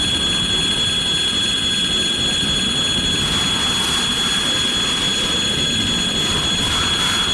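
Freight train rolling past at steady speed: a continuous rumble of wagons with a constant high-pitched whine over it.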